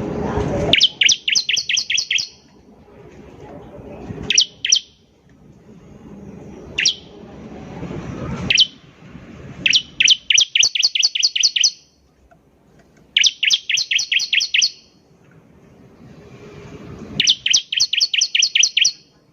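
Bar-winged prinia (ciblek) calling in bursts of rapid, sharp, evenly spaced chirps, about seven a second, each burst lasting one and a half to two seconds, with a few single or paired notes between bursts. A low rushing noise swells in the gaps between bursts.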